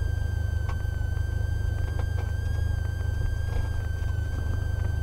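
Cessna 172R's four-cylinder Lycoming engine running at idle power in the cabin during the landing rollout, a steady low drone with a constant high whine over it and a few faint ticks.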